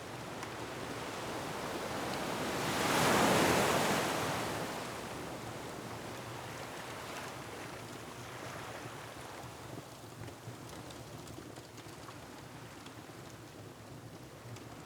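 Ocean waves surging against a rocky shore, with wind. One wave builds and crashes about three seconds in, then washes back into a steady surf. Faint crackles of a wood fire sound under it.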